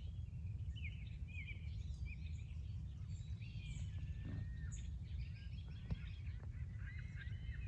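Several birds chirping and whistling, with a quick run of repeated arched notes near the end, over a steady low rumble.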